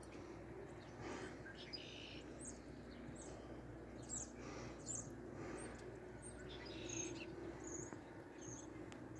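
Small birds chirping: a string of short, high chirps, roughly one or two a second, over a faint steady background hum.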